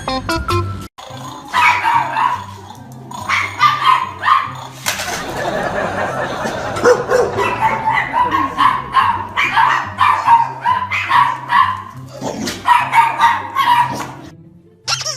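A dog barking over and over, in short sharp barks, over background music with a steady low beat.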